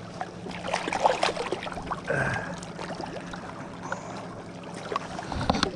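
Water splashing and dripping with scattered knocks and rustles as a large carp is landed and handled at the water's edge.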